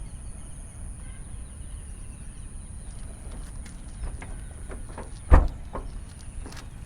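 Hindustan Ambassador's boot lid being shut: one heavy thump about five seconds in, then a lighter knock just after, over a low steady rumble.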